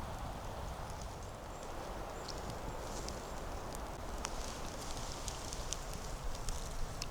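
Footsteps crunching through dry leaf litter and twigs on a forest floor, with scattered sharp crackles and snaps.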